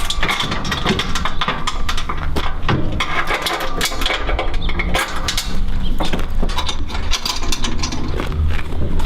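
Battery-powered hydraulic power unit of a steel hoof trimming chute running with a steady hum, with repeated metal clanks and knocks as the chute is moved into its stowed position.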